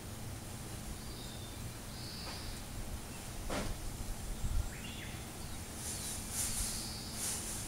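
Outdoor ambience with a few short, high bird chirps. There is a sharp click about halfway through and some brief high, hissy bursts near the end.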